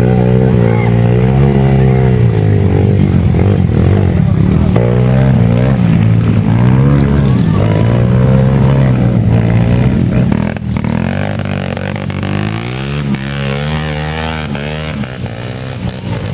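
Dirt bike engines revving, their pitch rising and falling again and again as the motocross bikes run. The engine noise is louder for the first ten seconds or so, then drops somewhat.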